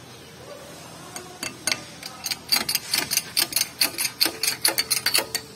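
Rapid, irregular light clicks, sparse at first and then about five a second after roughly two seconds, like small metal parts or a tool clicking.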